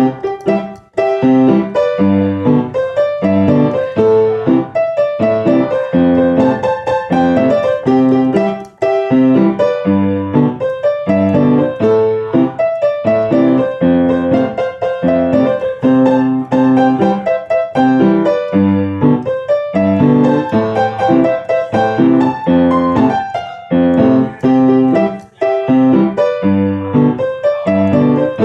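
Solo piano playing a melody over repeated chords in a steady rhythm.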